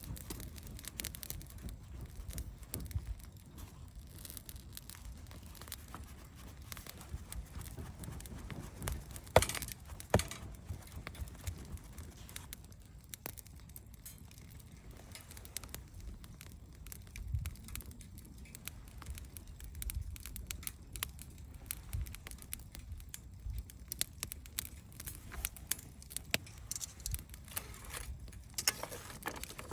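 Wood fire crackling, with scattered small pops and two louder snaps about ten seconds in.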